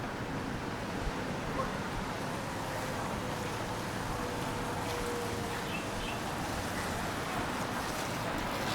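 Steady city street noise: the hiss of traffic on wet roads after rain.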